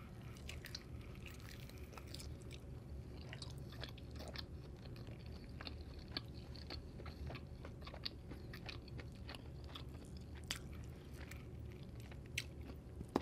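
Close-miked chewing and biting of a buffalo chicken wing, with many small mouth clicks scattered throughout.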